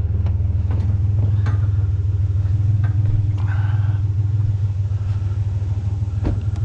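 Pickup truck engine idling with a steady low hum, with a few light knocks and clicks over it and a brief higher squeal about three and a half seconds in.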